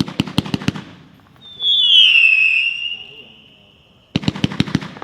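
A 23-shot consumer firework cake firing. It gives a quick run of about five sharp cracks, then a loud whistle that dips slightly in pitch and fades over about two seconds, then another rapid run of cracks near the end.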